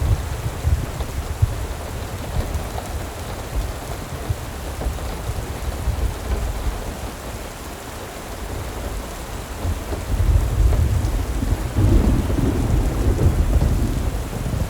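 Steady rain hissing over a deep, uneven low rumble that swells about ten seconds in.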